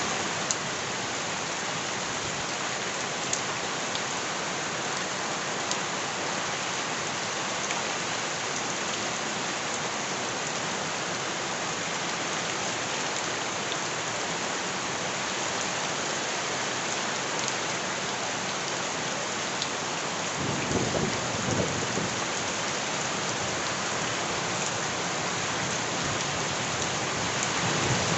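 Steady rain falling, a dense even hiss with scattered sharp drip ticks. About two-thirds of the way in, a brief low rumble swells for a couple of seconds.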